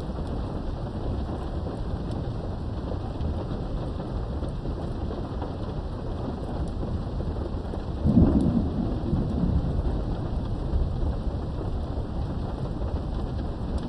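Steady rain heard from indoors behind a window, with a sudden crack of thunder about eight seconds in that rolls off low over a couple of seconds.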